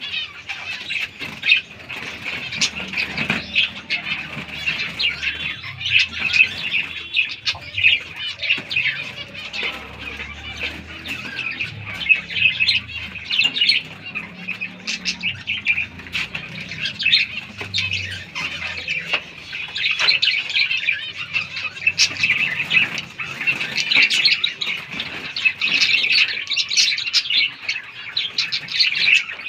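A flock of captive finches calling continuously: a dense, busy chatter of short high chirps.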